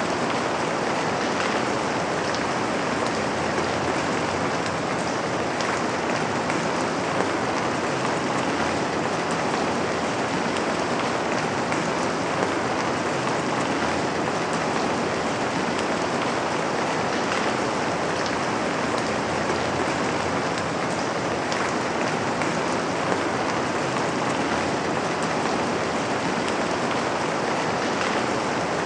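Steady rain falling on a window, an even hiss with occasional sharper drop taps.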